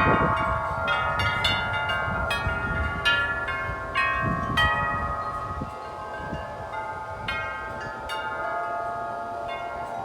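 Several large tuned wind chimes ringing in strong gusty wind, with many overlapping strikes that keep ringing on. Low wind rumble is heard in the first few seconds, and the strikes thin out and grow quieter toward the end.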